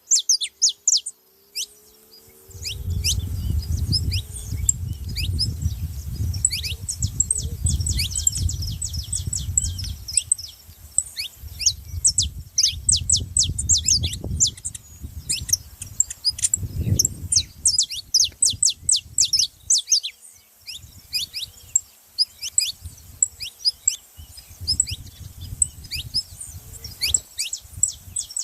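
Many small birds chirping together, a constant stream of short, quick downward-sweeping chirps. A low, gusty rumble comes in about three seconds in and rises and falls underneath.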